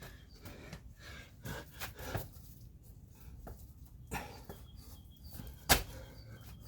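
A man breathing hard and panting, winded from burpees and kettlebell jump squats. A single sharp knock sounds near the end.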